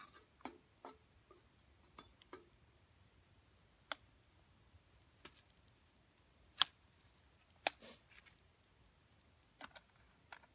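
Small twig fire crackling, with sharp pops and snaps at irregular intervals.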